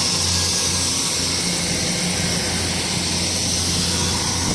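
Class 158 diesel multiple unit running under its own power as it pulls out of the station: a steady low engine hum with rumble and a hiss of noise above it.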